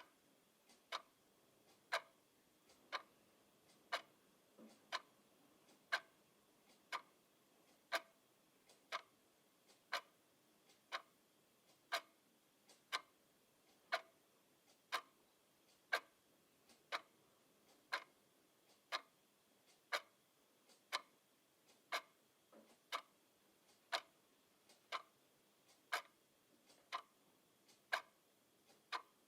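Clock ticking steadily, about one crisp tick a second.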